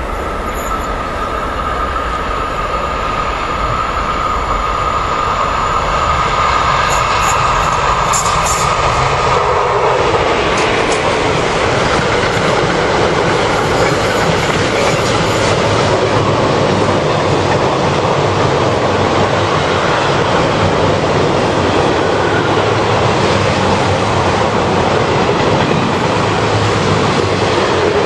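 Electric-hauled freight train of double-deck car-carrier wagons passing. A steady high whine is heard as it approaches and fades about ten seconds in, after which the loaded wagons roll past with a loud, steady rumble of wheels on rail.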